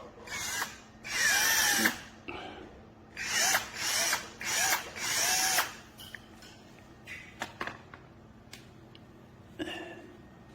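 SnapFresh 20V cordless drill run in a series of short trigger pulls, its motor whine rising and falling in pitch with each pull. A few light clicks follow, then one more brief run near the end.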